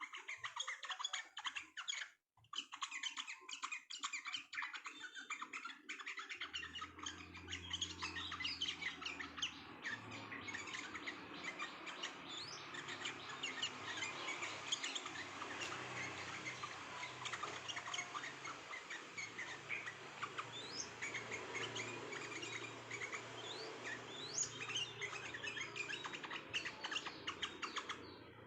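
Sooty-headed bulbuls (trucuk) chirping in a dense, continuous chorus of rapid notes, with a brief break about two seconds in. A low steady hum runs under it after about six seconds.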